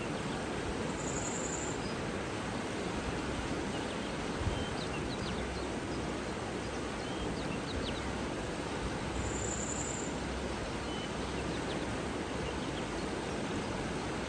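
Steady outdoor nature ambience: an even rushing noise with faint, scattered bird chirps, and two short high trills about eight seconds apart.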